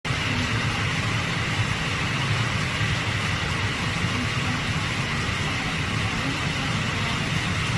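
Steady low rumble of road traffic and engines over a constant hiss of rain.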